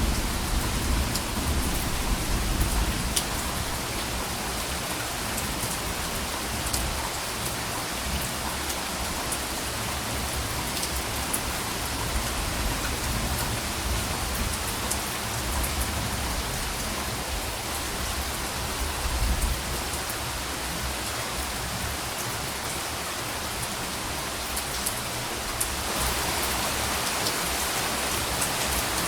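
Steady heavy rain falling, with sharp individual drops ticking through the hiss and low, soft rumbles of distant thunder now and then.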